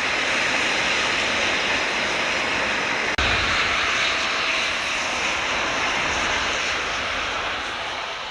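Eurofighter Typhoon jet fighters taking off: a steady rushing jet-engine noise with low rumble, broken by a momentary dropout about three seconds in and fading slowly toward the end as the jets move away.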